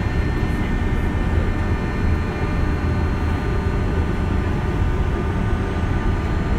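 JR West 201 series electric train running, heard from inside the car: a steady low rumble of wheels on rails with thin steady whining tones from the thyristor-chopper traction equipment.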